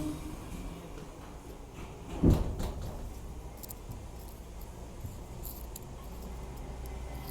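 Inside an R62A subway car: a low steady rumble, with one sharp knock a little over two seconds in and a few light clicks.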